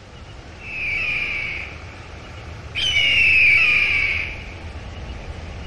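A bird calling twice, two drawn-out, high-pitched calls of about a second each. The second, louder call starts abruptly with a short downward slide. A steady low hum runs underneath.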